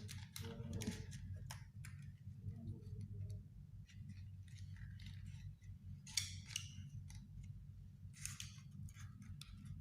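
Scissors cutting cigarette-pack card: scattered short crisp snips and rustles, the loudest about six and eight seconds in, over a steady low hum.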